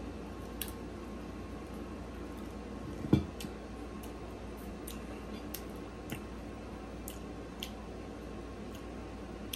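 Close-up chewing of a bite of fried pork chop: short, wet mouth clicks and smacks every second or so, with one low thump about three seconds in, over a steady low hum.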